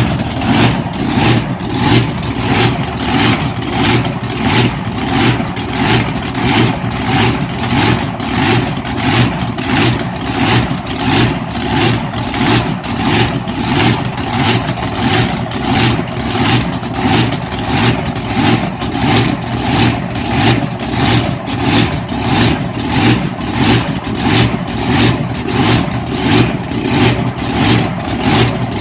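Drag boat's big-block V8 idling with a steady, even lope, the same throughout, with a steady high whine above it.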